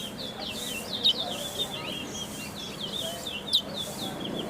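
A caged brown towa towa (chestnut-bellied seed finch) singing a fast, continuous chattering song of quick high chirps and twitters, with a few sharper notes standing out, as in a seed-finch singing contest.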